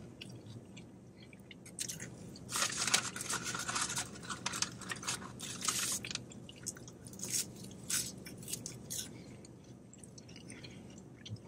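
A person chewing a mouthful of bacon burger on a pretzel bun, then French fries, close to the microphone: wet mouth sounds and small clicks in quick clusters, busiest from about two and a half to six seconds in and again around eight seconds.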